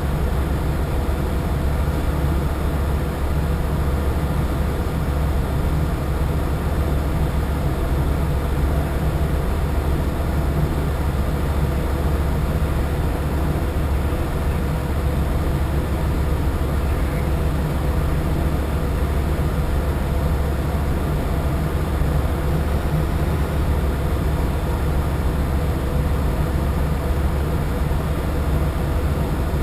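A boat's engine droning steadily, a strong low hum under a constant rush of noise that does not change.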